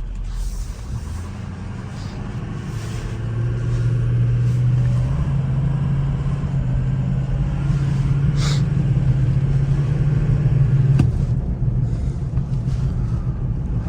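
Ford 6.0 Power Stroke turbo-diesel V8 running on the move, a steady low drone that grows stronger about three seconds in and eases off near the end, with a sharp click just as it drops.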